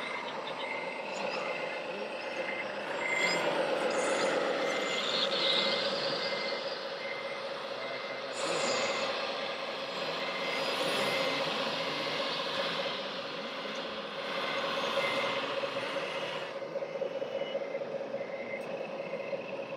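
Reversing beeper of a radio-controlled model truck, beeping steadily about twice a second, over a steady whine and the noisy working sounds of the model machinery, which swell louder in stretches.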